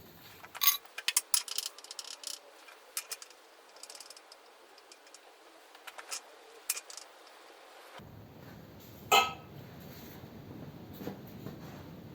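Scattered metallic clinks and knocks from tools or metal parts being handled: a quick cluster in the first few seconds, a few more later and one loud knock near the end.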